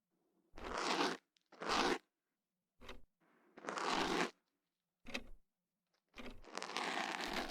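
Ear pick scraping and crunching inside the ear canal in close-up ear-cleaning ASMR: about six separate scratchy strokes with short silences between them, the longest near the end.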